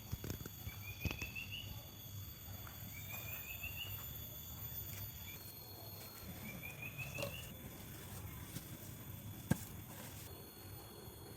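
A small bird singing a short phrase of quick notes that climb in pitch, three times, over faint steady high-pitched ringing. A few light clicks, with one sharp click about nine and a half seconds in.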